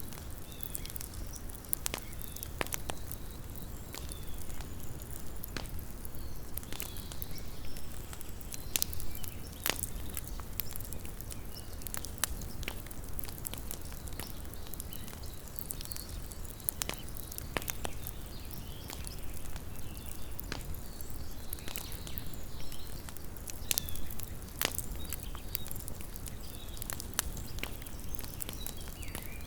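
Small wood campfire crackling, with irregular sharp pops and snaps scattered throughout over a low steady rumble.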